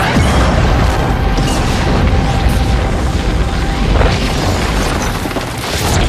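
Film sound effects of deep booms and rumbling destruction mixed over an orchestral score. Several sharper impacts flare up about one and a half, two and a half, four and six seconds in.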